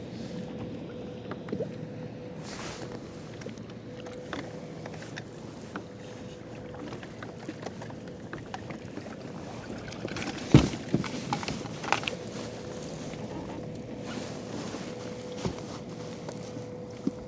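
Kayak on the sea: water moving against the hull with scattered small clicks and knocks over a faint steady hum. One loud knock comes about ten seconds in, followed by a few smaller ones.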